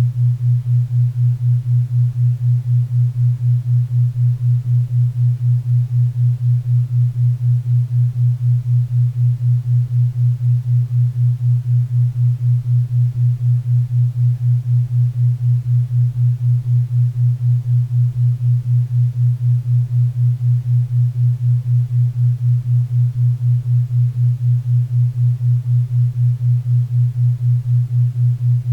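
Low steady tone pulsing evenly about four times a second: a 4 Hz theta-wave beat, with a faint bed of pink and brown noise beneath.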